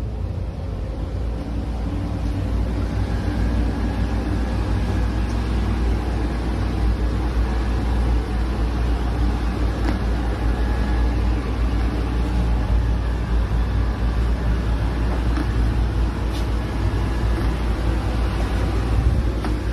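Roomba robot vacuum running: a steady motor hum with a strong low drone and fainter whine above it.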